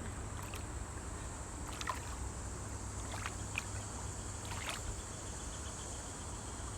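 Steady outdoor background: a low rumble with an even high hiss over it, broken by a few faint short clicks.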